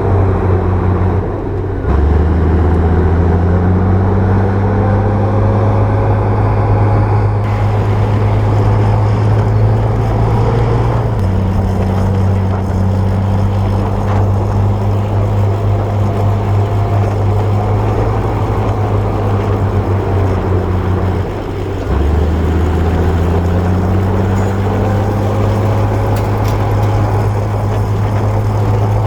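Bulldozer diesel engine running steadily under load. The engine note dips briefly about a second in and again about 21 seconds in, then climbs back up as it takes up the load again.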